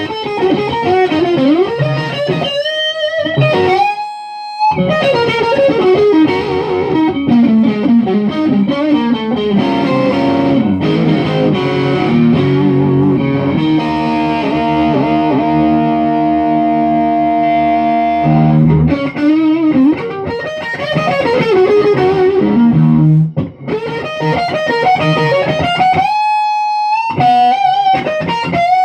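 Custom Super Bird electric guitar being played: a solo line of held notes and quick runs, with notes bending up and down in pitch.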